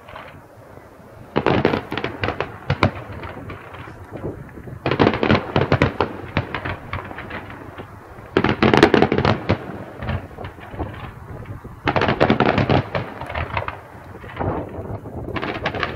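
Aerial fireworks bursting: five volleys of rapid crackling bangs, one every three to four seconds, with lower rumbling between them.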